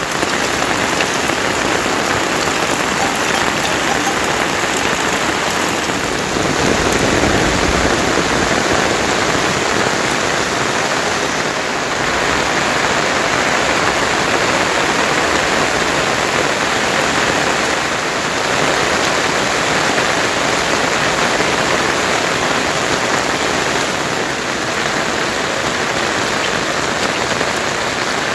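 Heavy rain falling and pattering on surfaces, a dense, steady hiss.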